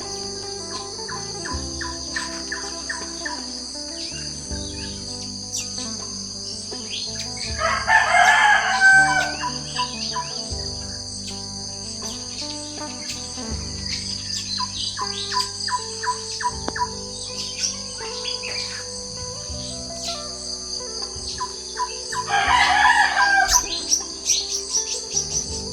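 Morning birdsong: many small birds chirping over a steady high insect drone, with a rooster crowing twice, about eight seconds in and again near the end.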